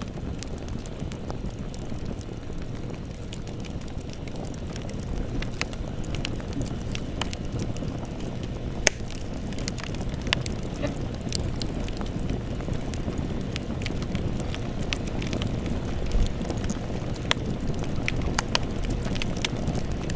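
Wood campfire burning, crackling with scattered sharp pops over a steady low rumble.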